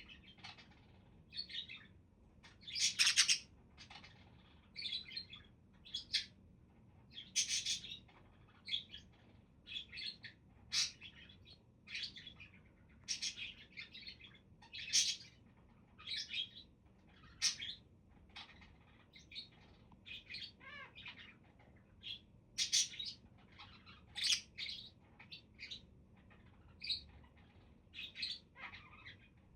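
Pet budgerigars chirping and chattering in quick, short calls, one or two a second.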